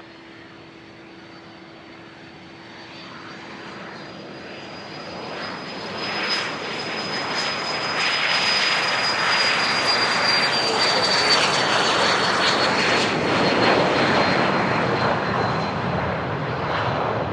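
Aircraft engine noise building over several seconds to a loud, sustained peak as a plane passes close by, then easing slightly. A high whine runs through it, rising a little in pitch and then falling as the plane goes past.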